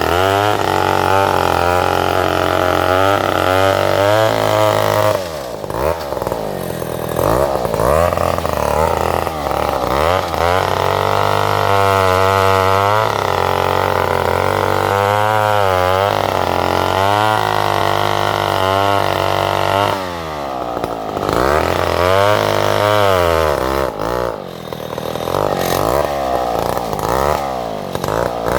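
Chainsaw cutting salam wood, its engine speed rising and falling as it works through the cut, easing off briefly about five seconds in, again around twenty seconds, and once more around twenty-four seconds.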